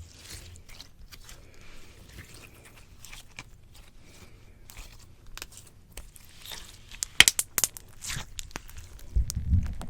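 Slime squished and pulled against a microphone: soft sticky crackling and small pops, with a burst of sharper, louder snaps about seven seconds in and a low muffled thump near the end.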